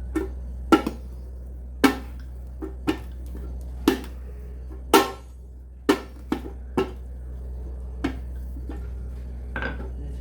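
Rolling pin knocking and clacking against the rolling board as small balls of wheat dough are rolled out thin like chapati: about a dozen short, irregular knocks over a low steady hum.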